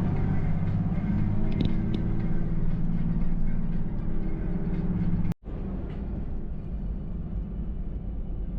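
A motor vehicle running, with its engine and road noise as a steady low rumble. The sound cuts off sharply about five seconds in and resumes a little quieter.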